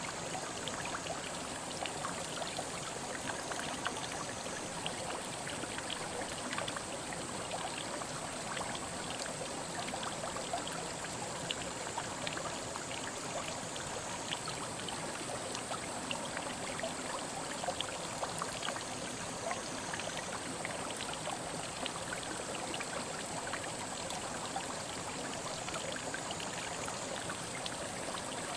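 Mountain headwater stream flowing steadily, a continuous babble of water full of small splashes and trickles.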